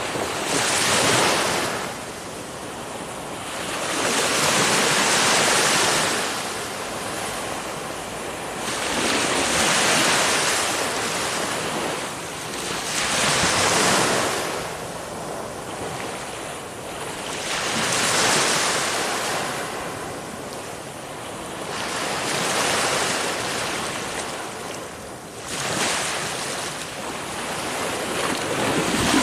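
Ocean surf: waves breaking and washing in a slow rhythm, each one swelling into a loud rush and then fading, about one every four seconds.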